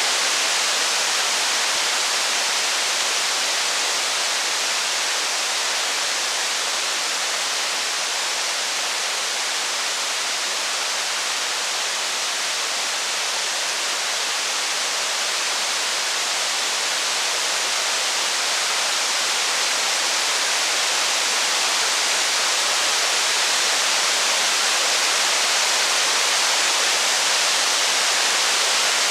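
Steady heavy rain, a dense even hiss with no separate drops, thunder or crackle standing out.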